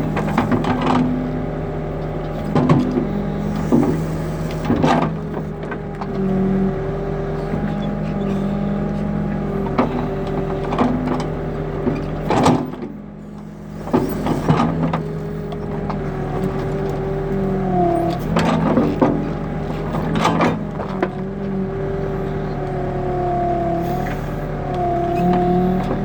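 New Holland backhoe loader's diesel engine running steadily, its note shifting up and down as the hydraulics take load, with repeated sharp metal knocks and clanks from the digging equipment. The sound drops off briefly about halfway through.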